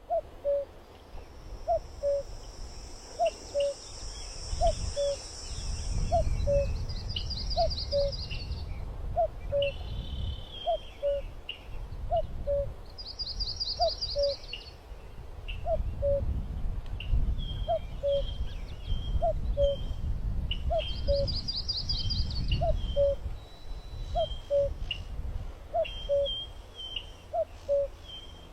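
Birds singing: one bird repeats a low two-note call, a higher note then a lower one, about once a second, while other birds add high trills and chirps. A low rumble swells and fades underneath.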